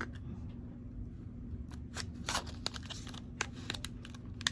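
Scattered small clicks and light rustles of packaging being handled, likely a false-lash box or tray being opened and shown, over a faint steady low hum.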